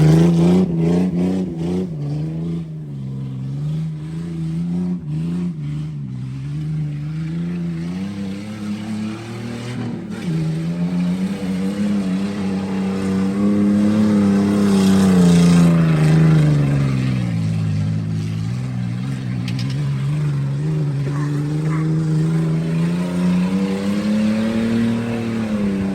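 Car engine held at high revs under load for a long stretch, its pitch swelling up and sagging down slowly several times, with a deep dip about two-thirds of the way through before it climbs again.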